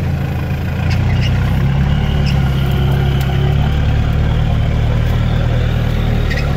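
Off-road 4x4's engine heard from inside the cabin, running steadily at low revs as the vehicle creeps into swamp water. Its note picks up slightly about a second in, and a few light clicks sound over the hum.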